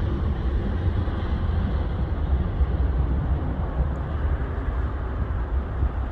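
Jet engines of a Boeing 737 on takeoff: a steady low rumble whose higher part slowly fades as the airliner climbs away.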